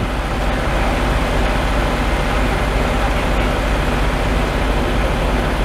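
A large engine running steadily at a constant pitch, with no revving.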